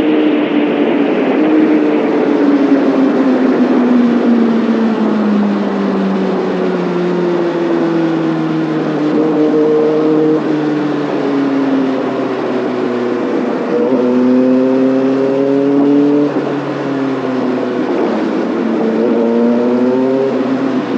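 Kawasaki Ninja ZX6R inline-four engine and exhaust under riding. The engine note falls slowly for about twelve seconds as the bike rolls off, then climbs twice in short pulls, dropping sharply between them.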